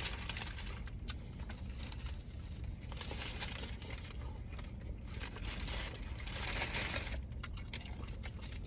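Paper sandwich wrapper crinkling and rustling as a saucy meatball sub is handled, louder for a few seconds around the middle.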